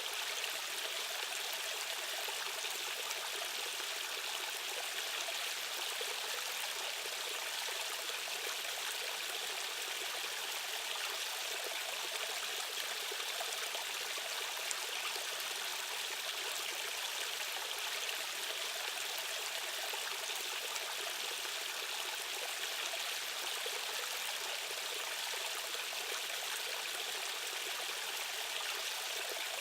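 Rushing stream water: a steady, unbroken hiss of flowing current, with no change in level.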